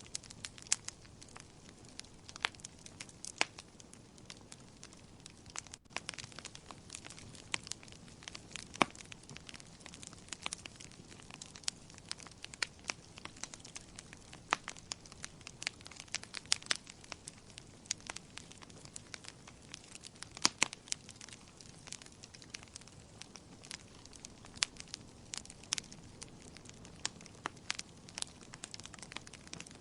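Wood fire burning in a fireplace: irregular sharp crackles and pops of burning logs over a steady soft hiss.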